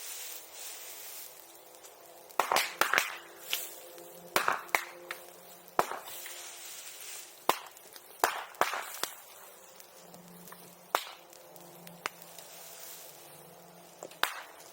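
Bamboo bursting in a bonfire: about a dozen sharp, irregular pops like firecrackers, with the fire crackling between them.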